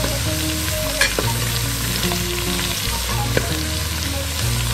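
Sliced shallots and curry leaves sizzling in hot oil in a clay pot, stirred with a metal slotted spoon that scrapes and clicks against the pot a few times.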